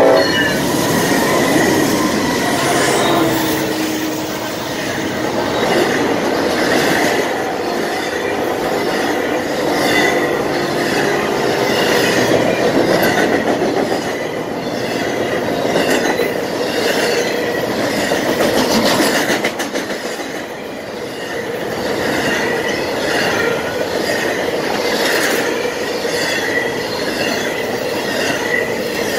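Norfolk Southern intermodal train passing close by. The tail of the diesel locomotive consist is heard in the first few seconds, then container and trailer cars rumble and clack over the rail joints. A faint high wheel squeal recurs.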